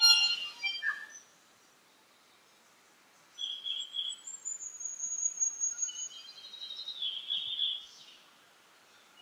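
Tui singing: a quick burst of varied notes, a pause of about two seconds, then a longer phrase with a high drawn-out whistle over lower warbling notes.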